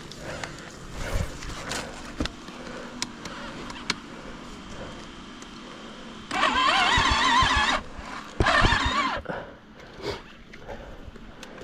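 Motorcycle electric starter cranking the engine twice: about a second and a half, then a shorter try, the pitch wavering with each turn of the engine, and it does not catch. The uploader blames a clogged carburettor and a flat battery.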